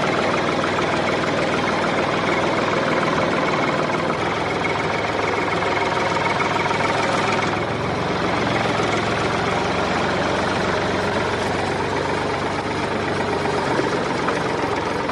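Engine of a homemade mini tractor running steadily, its note changing slightly about halfway through.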